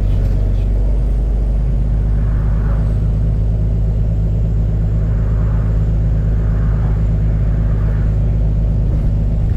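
Volvo B9TL double-decker bus's diesel engine running with a burst exhaust, heard from on board as a loud, steady, deep rumble with no rise or fall in pitch.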